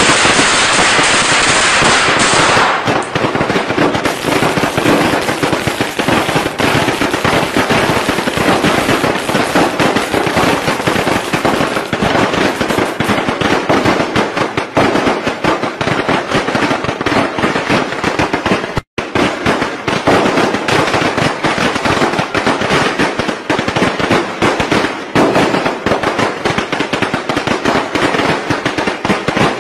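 Traditional Vietnamese Tet firecracker strings going off in a dense, unbroken crackle of rapid pops, with a momentary break about nineteen seconds in.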